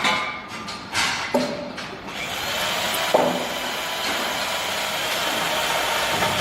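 A few sharp knocks, then a power tool running steadily with a hiss.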